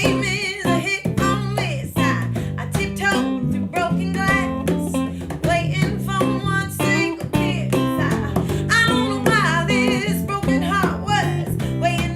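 Rock and soul band playing a song: guitars and bass guitar over drum hits, with a lead melody that wavers and bends in pitch.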